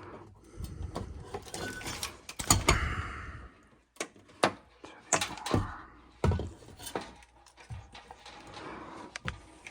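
Irregular clicks, clinks and knocks of hardware and tools being handled, with a brief rattle about two and a half seconds in.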